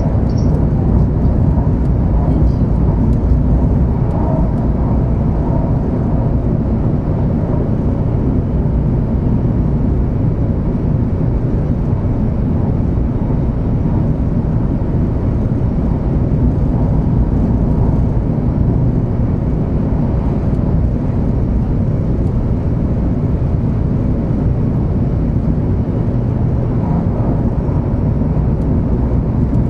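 Steady running noise of a 500 series Shinkansen travelling at speed, heard from inside the passenger car: a loud, even low rumble of wheels on rail and air rushing past.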